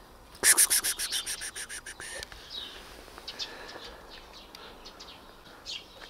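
Birds calling: a loud, rapid, harsh rattling chatter of about a dozen notes that fades out within two seconds, then scattered short chirps.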